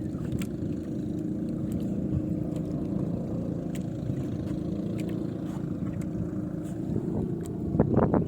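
Small boat engine running steadily with a low drone, and a brief burst of louder, irregular noise near the end.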